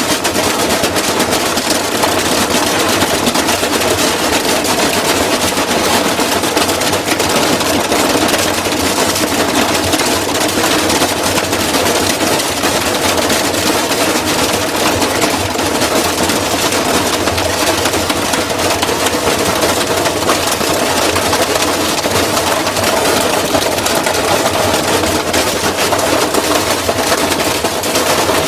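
Washing machine running hard, its drum spinning with a continuous loud rattle and clatter at a steady level.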